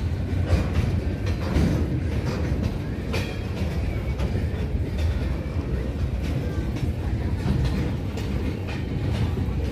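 Freight train of flat wagons rolling past on the track, a steady low rumble with scattered clicks and knocks from the wheels and wagons.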